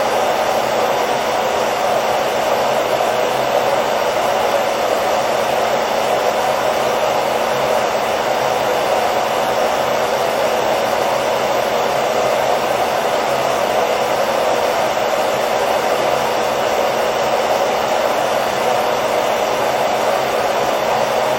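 Hair dryer running steadily: an even, unchanging blowing whoosh with no pauses.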